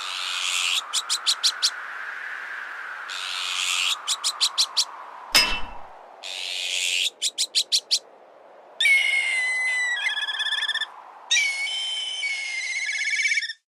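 Layered bird-repellent sound effects: strong wind noise underneath throughout. Over it, harsh azure-winged magpie alarm calls, each followed by a quick rattle of clicks, come three times. A single sharp metallic impact falls about five seconds in. Near the end come two long whistled black kite calls ending in a trill, then the sound cuts off suddenly.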